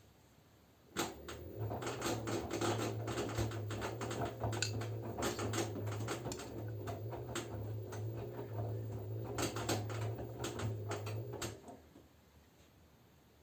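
LG F10B9LD washing machine at the start of its spin stage: the drum turns with a low hum and a clatter of knocks from the wet laundry inside. The sound starts about a second in and stops near the end.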